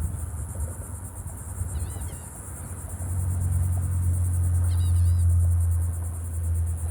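Steady high insect trill, like crickets, with a low rumble that swells about three seconds in and is the loudest sound, and a few short chirps.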